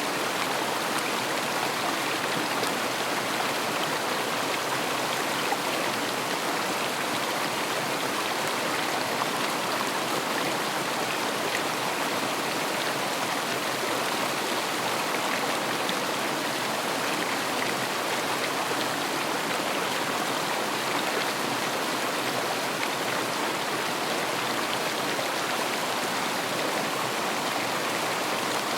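River water rushing steadily, a constant even rush with no breaks.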